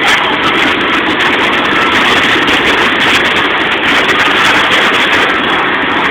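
Heavy rain and wind hitting a truck as it drives, a steady loud rushing noise with the truck's engine and tyre noise underneath.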